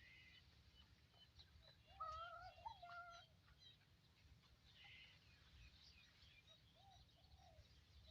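Faint birdsong: many short, high chirps scattered throughout, with one louder, wavering call lasting just over a second about two seconds in.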